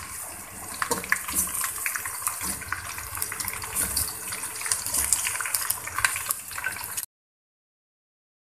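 Raw chicken pieces sizzling and crackling in hot oil with browning onions in a steel pot, with dense sharp crackles throughout. The sound cuts off abruptly to dead silence about seven seconds in.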